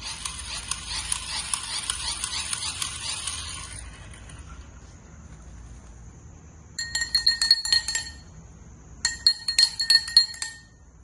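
Glass being tapped and clinked: a dense run of rapid small ticks for about four seconds, then two bursts of quick taps, each about a second and a half long, ringing at the same few bright pitches.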